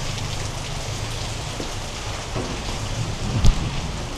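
Heavy rain pouring steadily on the ground and surfaces, with one short thump about three and a half seconds in.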